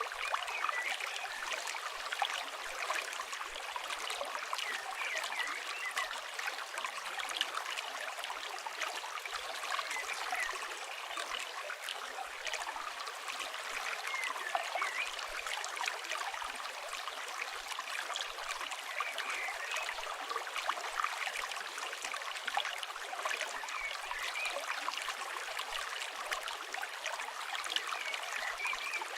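Steady flow of a river over rocks, with small crackles and pops from a campfire scattered throughout.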